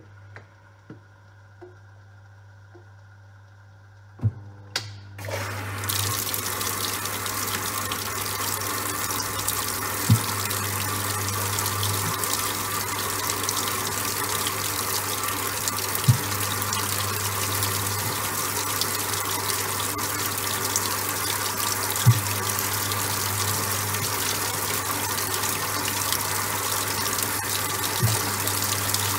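Top-loading washing machine: a low hum and a few clicks, then about five seconds in water starts pouring steadily into the drum as the machine fills. A short knock comes about every six seconds.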